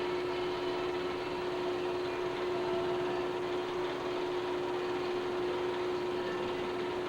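Steady machine hum and hiss with one constant mid-low tone, unchanging throughout: the background noise of a transfer of soundless 8mm film.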